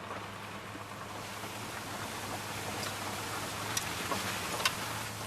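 1992 Dodge Dakota pickup running on wood gas while driving, heard from inside the cab: a steady engine hum under road noise, with a few faint rattles.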